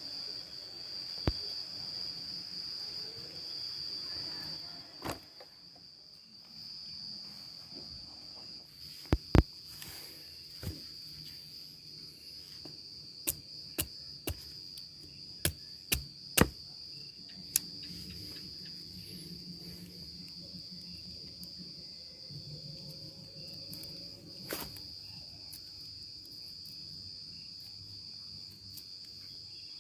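Forest insects keep up a steady high-pitched drone throughout. A dozen or so sharp knocks and clicks of something being handled or struck cut in, most of them bunched in the middle.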